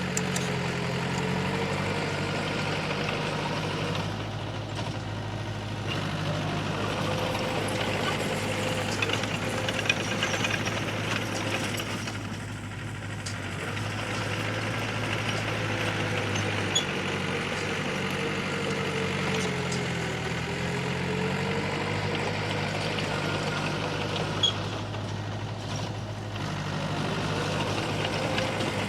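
Heavy diesel engine of earthmoving machinery running steadily, its pitch dropping and rising again several times as throttle or load changes, with a few brief sharp knocks.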